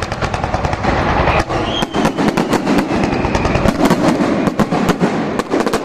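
Fireworks going off in a rapid run of sharp bangs and crackles over a continuous rumble.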